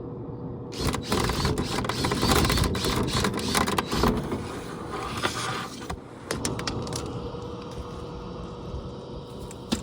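A powered dryer vent cleaning tool running in a vent duct: a steady motor hum with dense scraping and clattering from about a second in, easing to a steadier rush after about six seconds.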